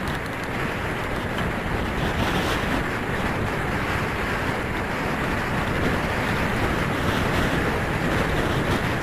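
Steady wind rush buffeting the microphone of a rider on the move, an even roar with no breaks.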